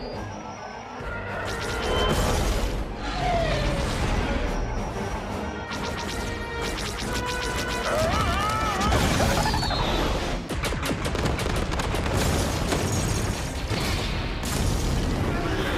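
Space-battle sound effects from an animated series, with repeated booms and crashes of explosions and weapon fire over a continuous music score.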